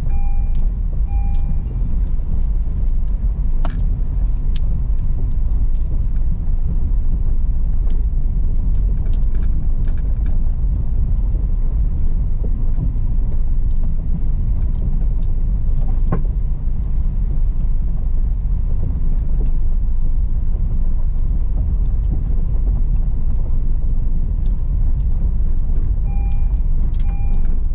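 Car driving on a rough unpaved road: a steady low rumble of engine and tyres, with a few sharp clicks and knocks now and then.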